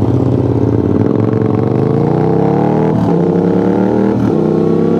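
Sportbike engine with its exhaust taken off, accelerating hard: the pitch climbs, drops at an upshift about three seconds in, climbs again and shifts once more about a second later.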